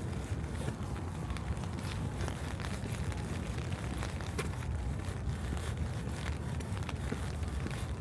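Light rain pattering in irregular small ticks and crackles, over a steady low rumble.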